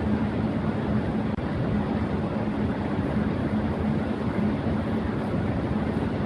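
Electric fan running at high speed: a steady rush of air with a low, constant motor hum underneath.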